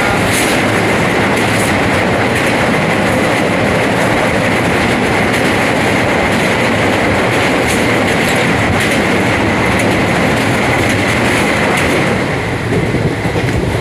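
Train running on rails: a loud, steady rumble with a faint scattering of clicks from the wheels.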